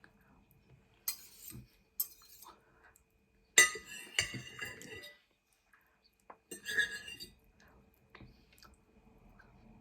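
Cutlery clinking and scraping against a plate in a few separate strokes, the loudest about halfway through.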